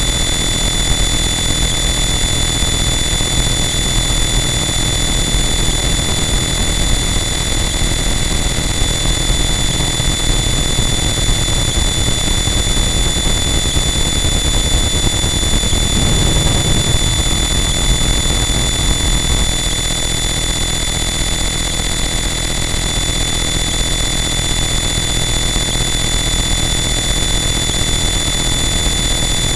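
Harsh noise wall: a loud, dense, unchanging wall of distorted static with steady high whining tones on top. A low rumble swells briefly a little past halfway through.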